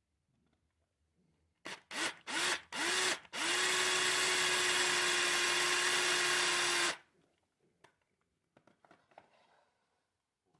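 Electric drill blipped four times in quick short bursts, each one spinning up, then run steadily at one speed for about three and a half seconds before it stops suddenly.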